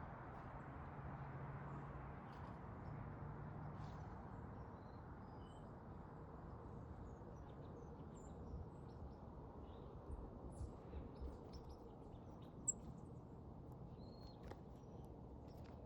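Faint small songbirds chirping now and then over a steady low background rumble. There are a few soft knocks about two thirds of the way in and one sharp click shortly after, the loudest sound.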